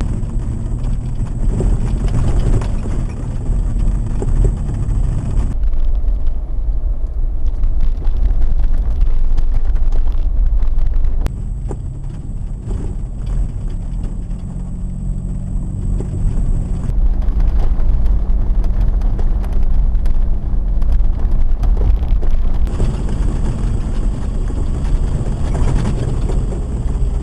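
Vehicle driving with a steady low engine and road rumble. It is cut into several stretches of a few seconds each, changing abruptly about every five or six seconds.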